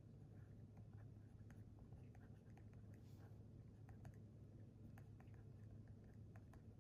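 Faint writing on paper: scattered light ticks and scratches, with a brief longer scratch about three seconds in, over a steady low hum.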